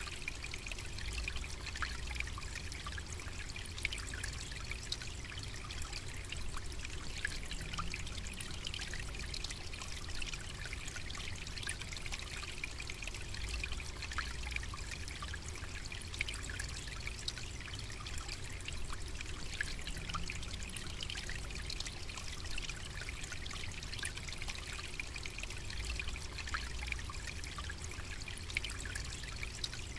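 Running water trickling and splashing steadily, with a low rumble beneath.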